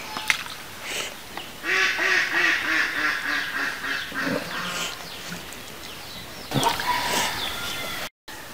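Birds, probably fowl, calling in a noisy chorus. A run of repeated calls comes at about four a second, and a second burst of calls comes near the end.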